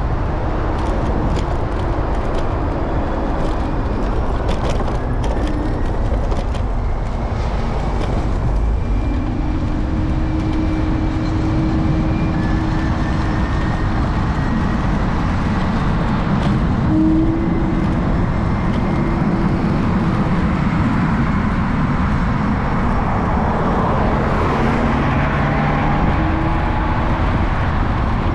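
Steady city street traffic and road noise heard from a moving electric scooter, with heavy wind rumble on the microphone and passing vehicles. Several sharp clicks or rattles come in the first few seconds.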